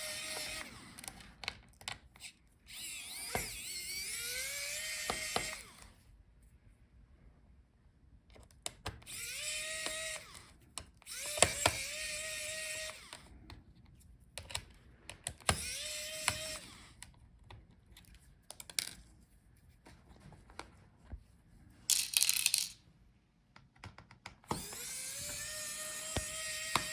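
Electric screwdriver backing out small laptop motherboard screws in about six short runs. Each run starts with a rising whine that then holds steady. Sharp little clicks and taps of screws and tools fall between the runs.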